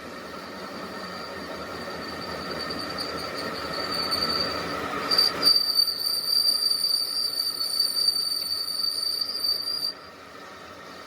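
A steady high-pitched metal squeal over a harsh grinding hiss, typical of a tool cutting steel. It grows louder, is loudest for its last few seconds, and cuts off suddenly about ten seconds in.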